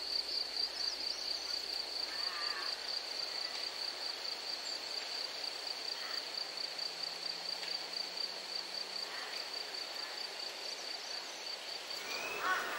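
An insect trilling continuously: one steady, rapidly pulsing high-pitched note that stops near the end, over faint outdoor ambience with a few soft bird chirps.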